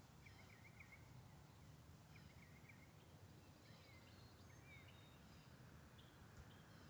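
Near silence outdoors: faint, scattered chirps of small birds in the distance over a low background hum.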